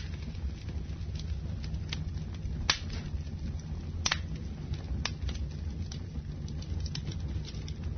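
Wood fire burning in a fireplace: a steady low rumble of flames with scattered sharp crackles and pops, the loudest pops coming a little under 3 seconds and about 4 seconds in.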